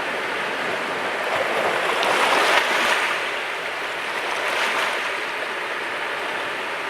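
Mediterranean sea waves washing ashore: a steady hiss of surf that swells as a wave breaks about two and a half seconds in, and again a little less strongly near five seconds.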